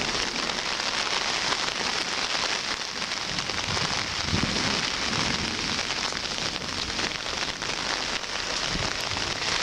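Heavy pouring rain falling steadily on a large umbrella overhead, with a brief low rumble a little past the middle.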